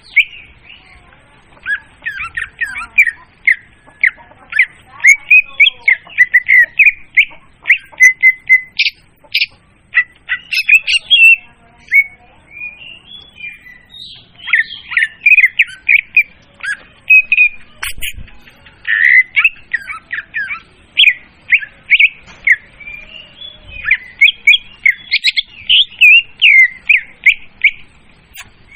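Leafbird (murai daun) song used as a bird lure: a loud, continuous stream of quick, varied chirps and short whistles.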